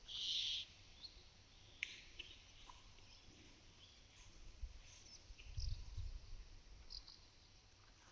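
Cow licking a mineral salt block: a rasping scrape of the tongue on the block right at the start, then fainter scrapes, with small birds calling and a low rumble about two-thirds through.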